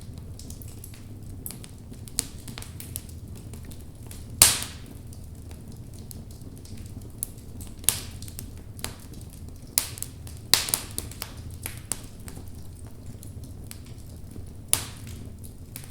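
Wood fire in a fireplace crackling: burning logs give scattered sharp pops, the loudest about four and a half seconds in and a cluster near the middle, over a low steady rumble of the flames.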